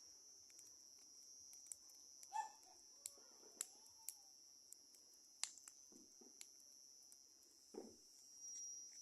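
Near silence: faint night ambience with a steady high-pitched whine, scattered faint clicks, and a brief animal call about two and a half seconds in.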